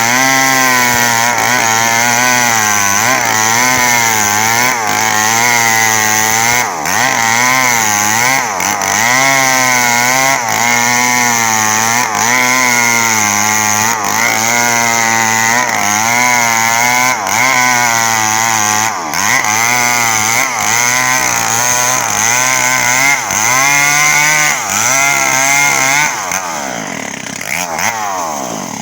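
Small Stihl chainsaw cutting a coconut palm trunk at full throttle, its engine pitch repeatedly dipping under load and picking up again. Near the end the revs fall away and the saw drops back toward idle.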